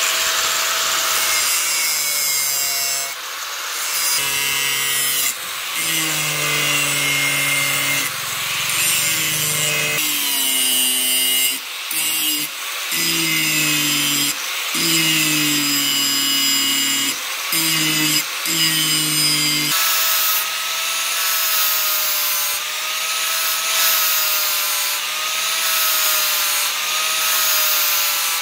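A power tool working the steel of a chainsaw bar: a continuous rasping noise with a motor note that wavers and shifts in pitch as the load changes, and a few brief dips in the second half.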